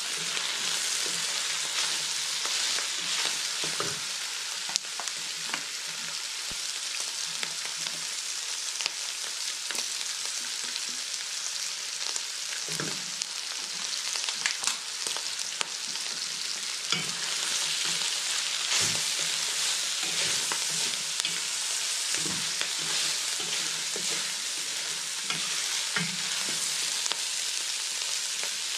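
A stir-fry sizzling steadily in a large metal wok. A wooden spatula stirs and scrapes against the pan now and then.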